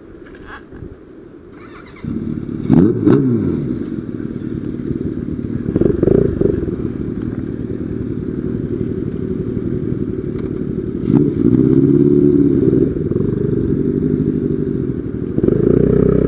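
Motorcycle engine running with a low, steady rumble that cuts in suddenly about two seconds in. A few sharp clicks and a brief falling change in engine pitch follow about a second later, and the engine sound swells again around eleven seconds and near the end.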